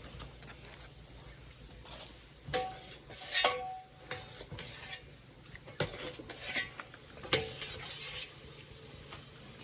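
Dishes and utensils being handled: several scattered clinks and knocks, a few of them with a brief ring.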